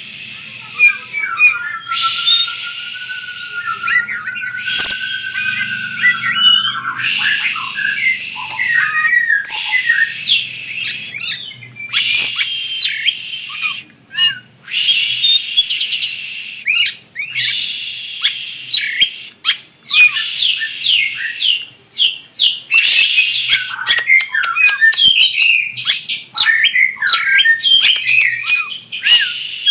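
A pet songbird singing a long, loud, varied song of rapid chirps, trills and sweeping whistled notes, with a long wavering whistle early on and a couple of brief pauses.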